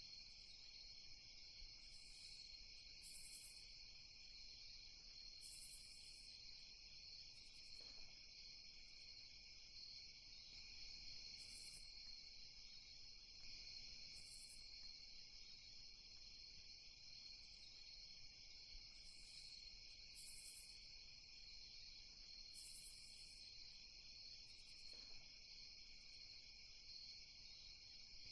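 Faint night ambience of crickets: a steady chorus of trilling insects, with short, higher-pitched chirps breaking in every few seconds.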